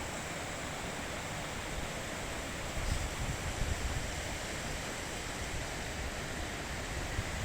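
Mountain river rushing steadily over rocks, a continuous even rush of water with a fluctuating low rumble.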